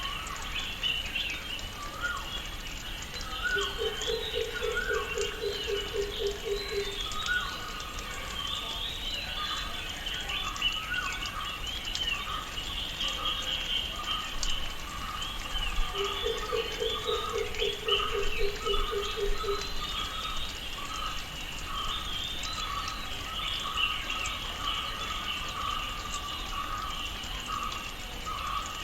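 Tropical rainforest ambience: many birds chirping and calling over one another without pause, with a repeated mid-pitched call running through the second half. Twice, a lower call of a dozen rapid pulses lasts about three to four seconds.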